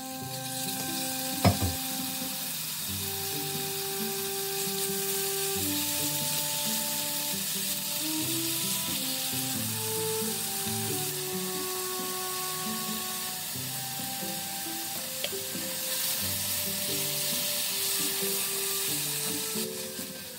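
Pork scraps and broccoli stems sizzling as they stir-fry in oiled pans on a gas hob, turned with chopsticks; a steady frying hiss that thins near the end. One sharp knock about a second and a half in.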